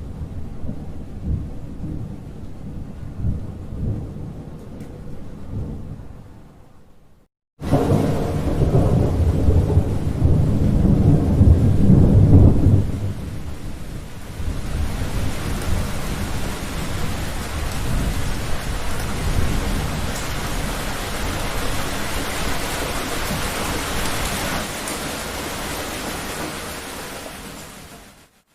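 Thunder rumbling and dying away, cut to a moment of silence about seven seconds in. A louder, deeper roll of thunder follows, then gives way to steady heavy rain that fades out near the end.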